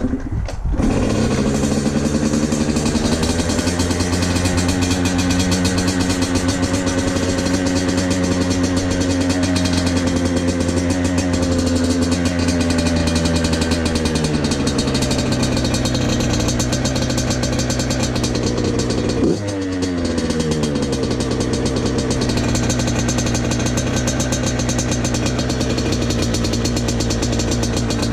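Motorcycle engine running under way. It picks up in the first couple of seconds and holds a steady pitch, then steps down in pitch about halfway. About two-thirds through there is a brief break, after which the pitch climbs and settles again.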